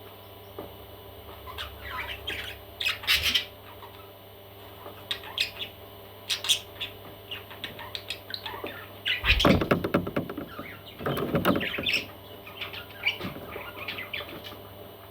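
Baby parrots calling in short squawks and chirps, scattered at first, then in a louder, denser burst about nine seconds in and again a couple of seconds later.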